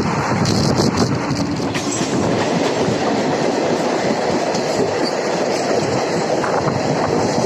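Indian Railways passenger train running at speed: a steady, loud rumble of wheels on the track with clattering over the rail joints, with several sharp clicks in the first couple of seconds.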